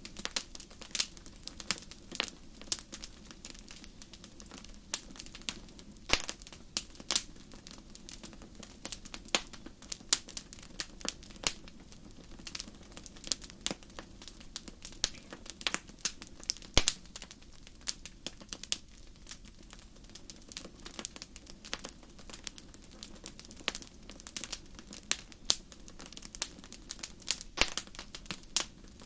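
Fire crackling: irregular sharp pops and snaps, several a second, over a faint steady low rumble of flame.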